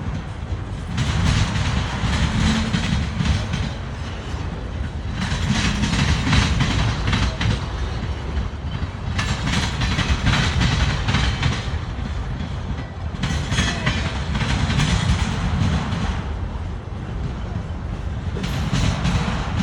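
CSX freight train rolling slowly past: a steady low rumble of railcars, with bursts of wheel clatter about every four seconds.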